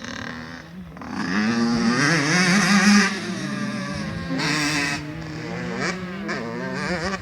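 Motocross bikes' small two-stroke engines revving up and down, more than one at once, the pitch rising and falling with the throttle; louder from about a second in, loudest around two to three seconds in.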